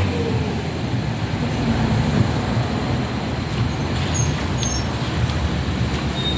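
Steady low rumble of road traffic, with a few short high bird chirps about four seconds in.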